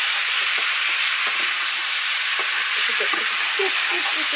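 Chopped squash sizzling as it fries in a wok, stirred with a spatula that scrapes and taps irregularly against the pan.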